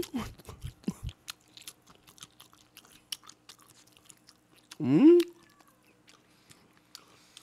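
Close-miked chewing of a mouthful of food, with many small wet clicks and smacks of the mouth. About five seconds in comes one short rising "mmm" hum of enjoyment.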